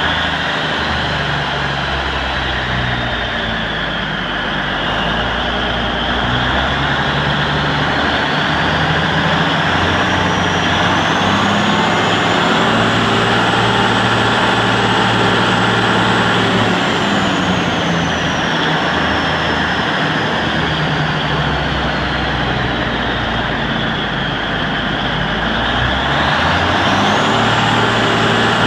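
1993 John Deere 8970 tractor's 400 hp Cummins six-cylinder diesel running just after start-up. A high whine climbs about ten seconds in, holds, sinks back, then climbs quickly again near the end.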